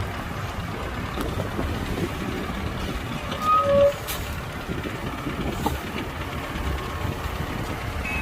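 Heavy earthmoving machinery running steadily, a low diesel rumble, with one short high-pitched tone about three and a half seconds in that is the loudest sound.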